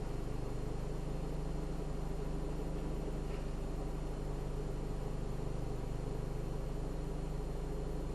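A car's steady engine hum and road noise, heard from inside the cabin while driving at an even pace.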